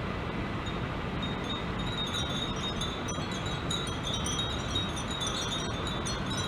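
Many Japanese furin wind chimes tinkling in the breeze: a continual scatter of short, high, bell-like pings, over a steady low background rumble.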